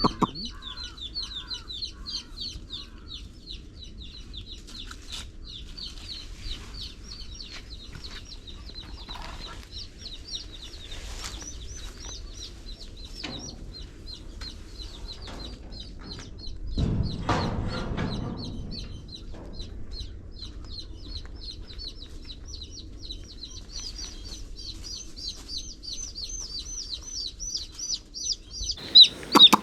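Chicks peeping continuously in quick, high chirps, several a second, with occasional lower clucking. About 17 seconds in there is a louder burst of noise lasting a second or two, and at the very end the peeping becomes loud and close.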